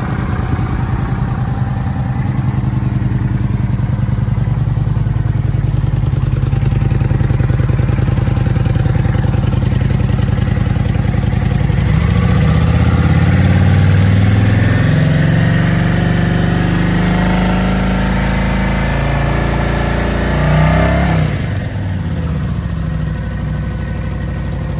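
Kawasaki VN900 Custom's liquid-cooled V-twin engine idling steadily, heard up close. Its note changes and fills out about halfway through, then briefly rises and drops back shortly before the end.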